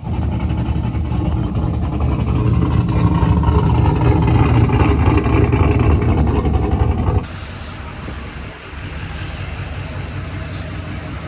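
Cammed truck engine running, getting louder over several seconds, then dropping abruptly to a lower idle about seven seconds in, with a brief sag about a second later. The engine is being tuned because it stalls when given gas or shifted into reverse.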